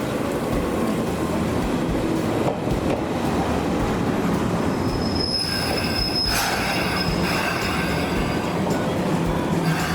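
Toyama Chiho Railway electric train running along the track with a steady rumble, and a high-pitched wheel squeal about halfway through.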